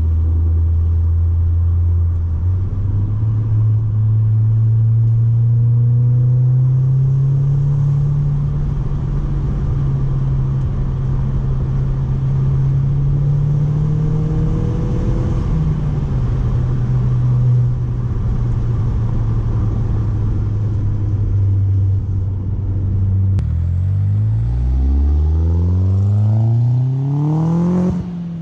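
Audi A4 B6's turbocharged 1.8-litre four-cylinder running through an ECS catback exhaust with no resonator, droning at a steady cruise for most of the time. Near the end it revs up hard in a full-throttle pull, its pitch climbing steeply, then drops suddenly at a gear change.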